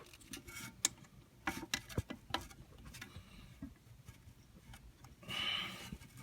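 Scattered light clicks and taps of plastic parts of a Delta Flush IQ toilet flush kit being handled and slid into place, with a short sliding rasp about five seconds in.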